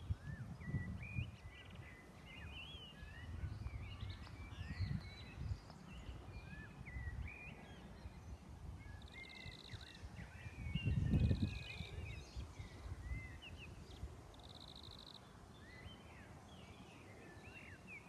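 Several songbirds chirping and calling with short whistled notes throughout, and three brief buzzy trills. Low rumbling noise on the microphone comes and goes and is loudest about eleven seconds in.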